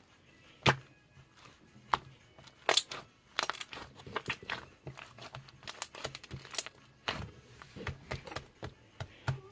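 Irregular crinkling and rustling with sharp clicks and taps, as of something being handled close by, over a faint steady low hum.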